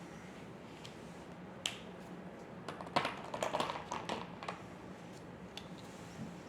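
Drawing tools handled on paper: a single sharp click, then a short burst of clicks and scratching, over a low steady hum.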